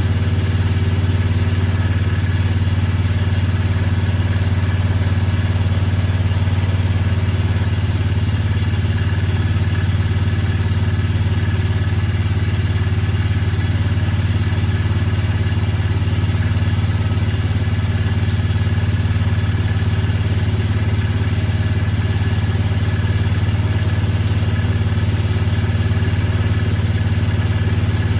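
Motorcycle engine idling steadily after a cold start, warming up with no change in speed.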